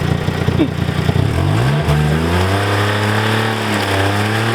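Subaru Justy's small engine running low and uneven, then revved up about a second and a half in and held at high revs.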